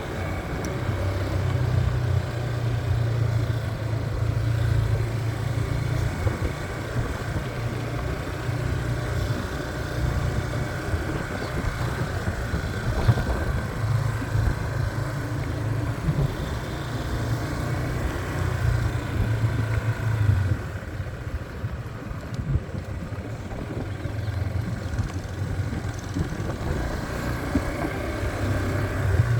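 Motorbike engine running steadily while riding. It eases off briefly about two-thirds of the way through, then picks up again.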